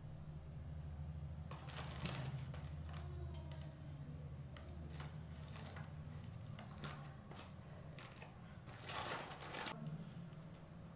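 Kitchen food-preparation sounds: irregular clicks and knocks of utensils, with a short scraping or sizzling rush about nine seconds in, over a steady low hum.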